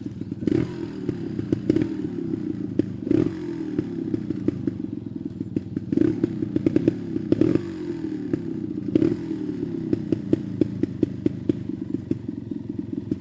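Trials motorcycle engine ridden at low speed with short throttle blips every second or few, each rev falling away again, mixed with sharp clacks and knocks.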